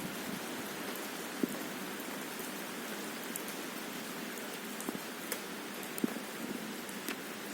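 Steady rain falling, with a few sharper drop hits standing out now and then.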